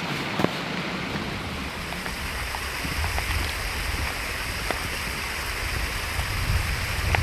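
Steady rain hissing, with scattered faint ticks; a low wind rumble builds near the end.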